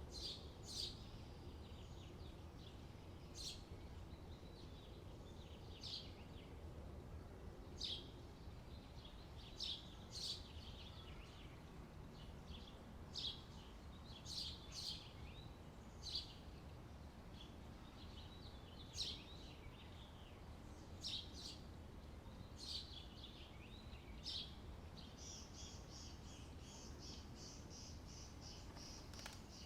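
Birds chirping outdoors in faint, short, high calls every second or so over a low steady background rumble. About 25 seconds in, a fast, steadily repeated high trill starts and keeps going.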